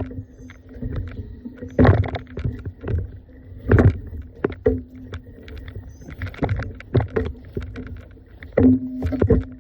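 Footsteps and rustling handling noise from a carried camera while walking, with irregular knocks and a low hum that comes and goes.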